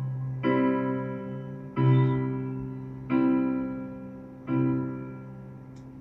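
Keyboard playing four slow chords, each struck and left to ring out and fade, the last one dying away toward the end.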